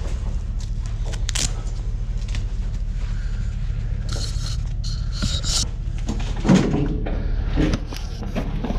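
Scattered knocks and clicks of objects being handled, with a scraping rustle about four seconds in and a heavier thump about six and a half seconds in, over a steady low hum.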